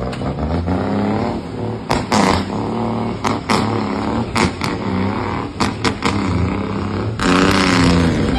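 Truck engine being revved repeatedly, the pitch climbing and falling with each blip of the throttle, with sharp cracks between revs. About seven seconds in it is held at a louder, harder rev.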